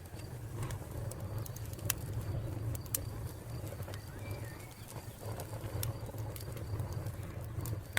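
Wood fire crackling: scattered sharp pops and snaps over a steady low rumble, with a faint high pulsing chirp of crickets behind it.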